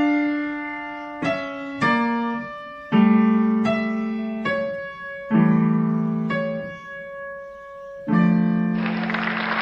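Piano playing a slow melody in struck chords, each note fading after it is played. A steady hiss joins in near the end.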